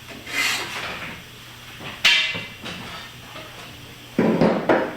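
A few knocks and clanks rather than a running engine. The sharpest comes about two seconds in and rings briefly, and a louder jumble of knocks follows near the end.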